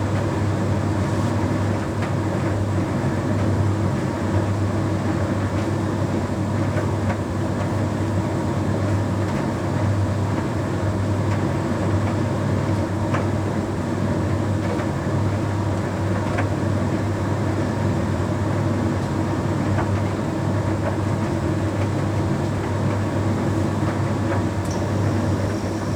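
Bosch Series 6 heat pump tumble dryer running, its drum turning with a steady low hum and a few faint ticks; a thin high tone comes in near the end.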